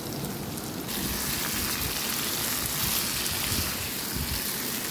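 Potato, carrot and chopped onion sizzling in hot oil in a wok while being stirred with a spatula; the sizzle gets louder and brighter about a second in.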